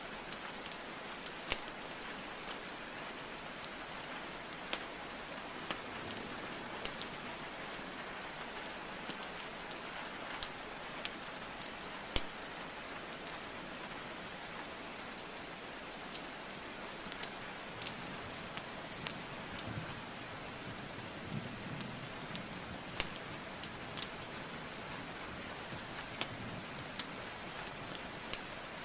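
Steady rain hiss mixed with the crackling of a wood fire: frequent sharp, irregular pops and snaps of burning logs over the even patter of rainfall.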